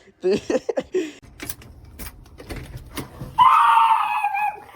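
A dog's long, high-pitched cry about three seconds in, held for over a second and falling slightly in pitch. A low rumble and a few faint knocks come before it.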